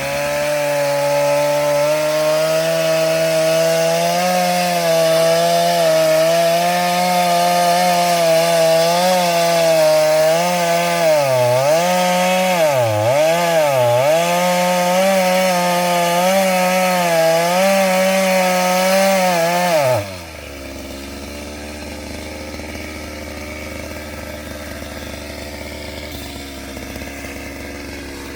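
Two-stroke chainsaw run at full throttle while cutting wood, its pitch dipping several times as the chain loads up in the cut. About twenty seconds in, the throttle is released and it drops back to a steady idle.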